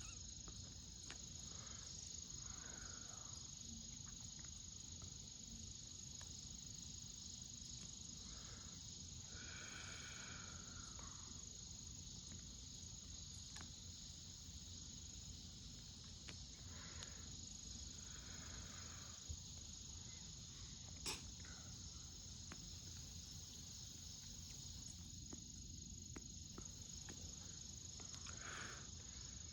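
Insects singing in a steady chorus on a summer hillside, a faint high continuous tone, with a couple of soft clicks near the middle.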